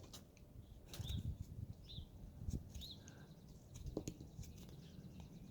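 House finches chirping, three short arched chirps about a second apart, over scattered light clicks and scrapes of a carving knife cutting wood.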